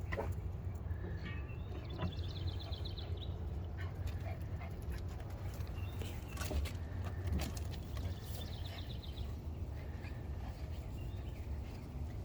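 Puppies making small sounds over a steady low rumble of wind on the microphone, with scattered clicks and a short high trill twice, about two and a half and eight and a half seconds in.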